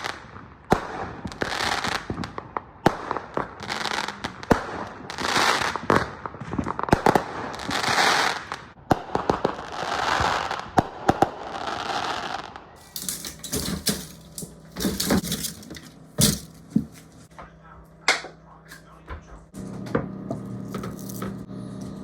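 Fireworks going off: a quick run of sharp bangs and crackling hiss. About thirteen seconds in, this gives way to a few scattered knocks, and near the end a steady low hum joins them.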